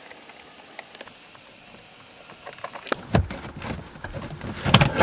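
Scattered plastic clicks, knocks and rattles of trim and filter-housing parts being handled while a car's cabin air filter is changed, starting about halfway through and bunching up with a couple of dull thuds near the end.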